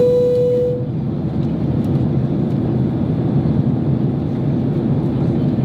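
A single cabin chime rings at the start, one clear tone lasting under a second, over the steady engine and airflow noise inside the economy cabin of a Boeing 767-300 on descent to land.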